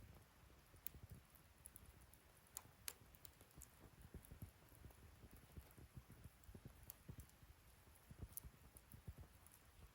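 Wood fire burning in a bonfire stand, crackling faintly with scattered sharp pops and soft low knocks.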